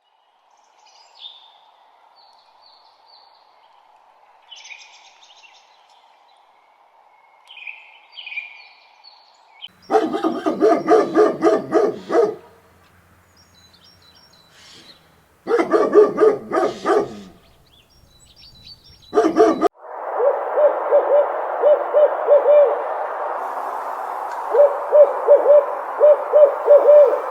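Owl hooting in runs of rapid pulsed calls, three times, after a quiet stretch of faint high bird chirps. About two thirds of the way in, a dense noisy chorus takes over, with groups of short, quick calls repeating.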